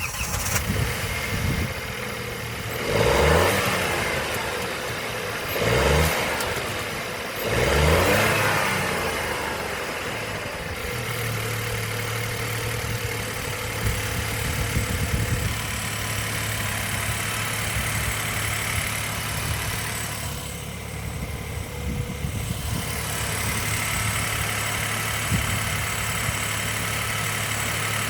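2017 Kia Stonic car engine, just started, revved up and let fall back three times in the first eight seconds or so, then settling into a steady idle.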